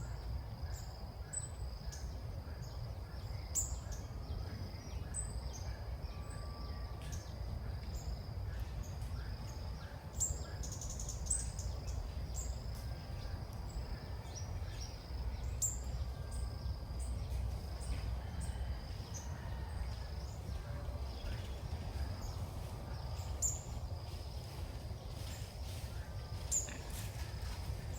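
Short, high bird chirps, scattered about once a second, over a steady high-pitched hum and a constant low rumble.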